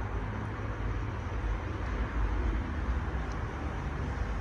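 Steady low rumble with an even hiss over it, a continuous background noise with no distinct event in it.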